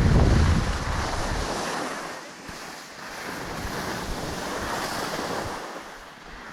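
Wind buffeting the microphone during a ski descent, heaviest in the first second or two, over a steady rushing hiss that swells and eases.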